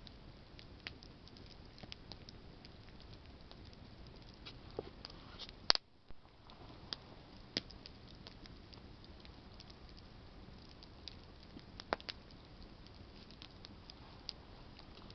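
Wood campfire crackling: a low steady hiss with scattered sharp pops from the burning branches, the loudest about six seconds in and another near twelve seconds.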